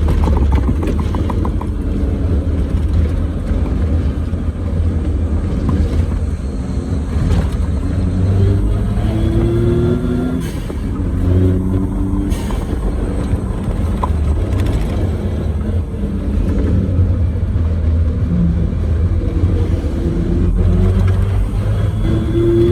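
Suzuki Jimny JA11 driving on the road: its small three-cylinder turbo engine rises in pitch several times as it accelerates, over a steady low rumble of the road and the Geolandar X-MT mud-terrain tyres.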